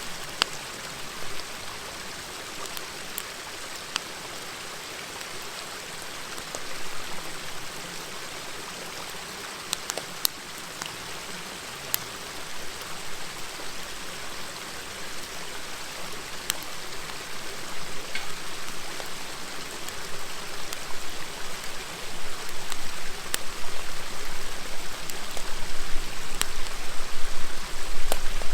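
Steady murmur of a river, with the sharp crackles and pops of a wood fire scattered through it; the sound grows louder over the last few seconds.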